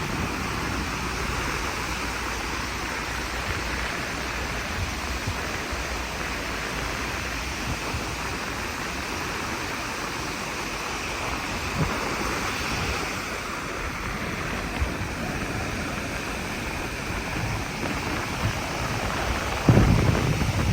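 Steady rushing wash of sea and wind at the shore, with a louder low buffet of wind on the microphone near the end.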